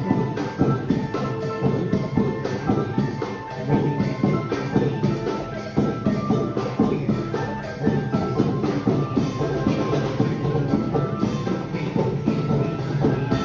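Loud, continuous percussion-led music: rapid drum strikes with short pitched notes ringing above them.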